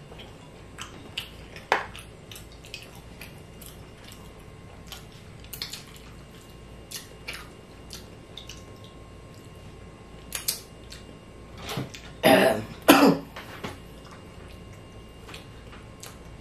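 Close-up eating sounds of chewing skewered fish balls: wet mouth smacks and small clicks scattered throughout. About twelve seconds in comes a short, loud double cough.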